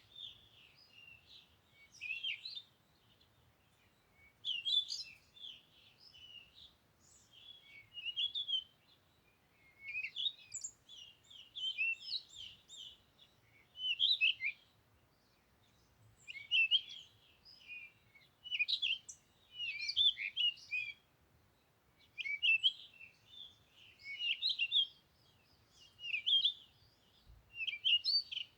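Songbird song: quick, high chirps in short phrases of about a second, repeating every couple of seconds with brief pauses between.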